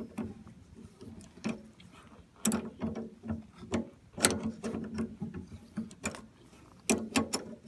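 Hand ratchet wrench clicking in short, irregular strokes, with metallic clinks, as a nut on the outboard's steering cable mount is tightened.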